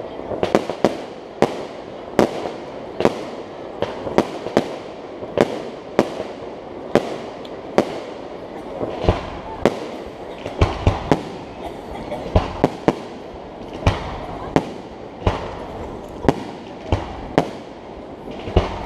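Aerial firework shells bursting in an unbroken string of sharp bangs, roughly two a second, each with a short echo.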